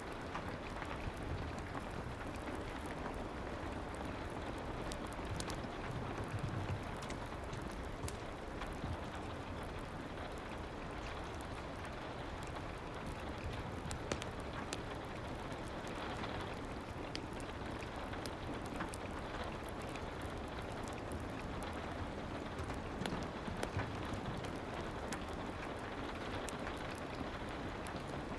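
Steady soft rain falling, with scattered faint crackles that fit the fireplace laid under it.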